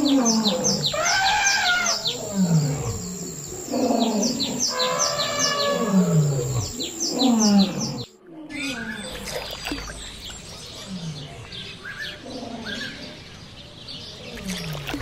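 Elephants calling: a string of pitched cries that slide down in pitch, one every second or two, over many birds chirping high above. The sound cuts and turns quieter about halfway through, where the falling calls go on more faintly.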